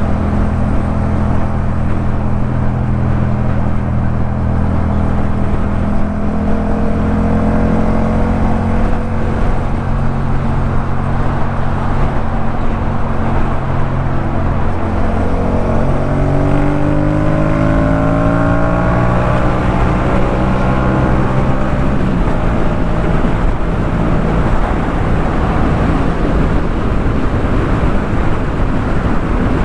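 Yamaha MT-07 parallel-twin engine running through a Jeskap K4 full exhaust at steady riding revs, over a constant rush of noise. Past the halfway point a set of engine tones rises in pitch for several seconds, then settles again.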